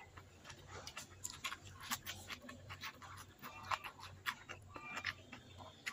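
Close-up eating sounds of a person chewing mouthfuls of rice and stir-fried water spinach eaten by hand: wet chewing and lip-smacking with many irregular clicks.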